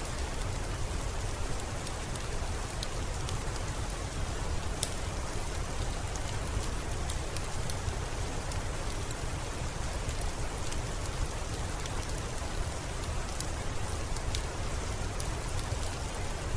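Steady rainfall: an even hiss with a low rumble underneath and scattered sharp ticks of individual drops.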